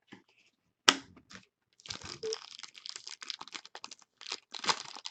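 Packaging crinkling and tearing by hand, as a trading card pack is opened: one sharp click about a second in, then irregular crackling that runs on.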